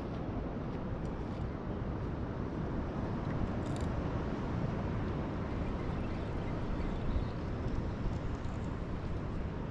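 Steady outdoor background noise: an even low rush and hiss, with no speech.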